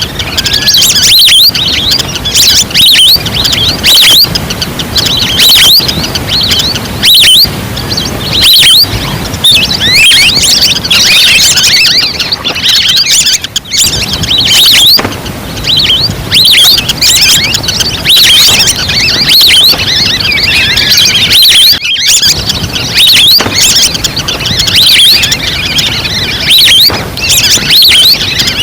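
Recorded flock of wild ducks calling as a hunting lure call: many overlapping short, high whistling chirps, swelling in loud surges every second or two.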